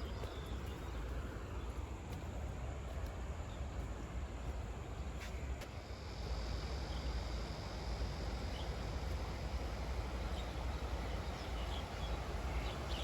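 Creek-side outdoor ambience: a steady rushing hiss of flowing stream water over a low rumble, with a thin high insect buzz joining from about six seconds in.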